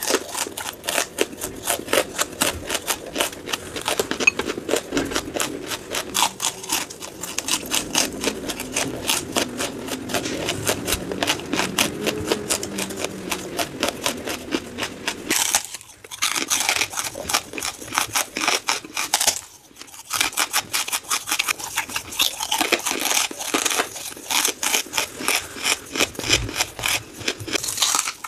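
Brittle charcoal being bitten and chewed: dense, rapid crunching and crackling, broken by two brief pauses near the middle.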